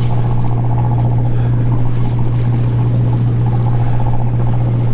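Fishing boat's engine running, a steady low hum, with water sounds over it.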